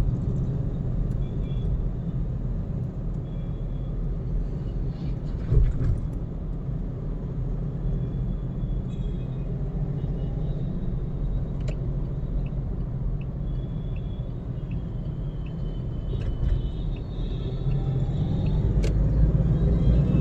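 Car driving at road speed, with a steady low rumble of tyre and engine noise and a single thump about five and a half seconds in; the rumble swells near the end.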